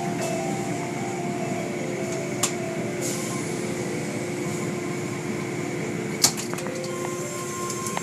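Car wash machinery running with a steady hum, with a faint click about two and a half seconds in and a sharp knock about six seconds in.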